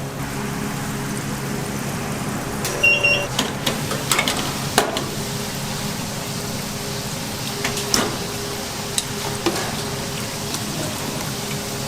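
Oil in a deep fryer sizzling steadily over a low hum. Scattered knocks and clatters of kitchen utensils come in mid-way, with a short beep about three seconds in.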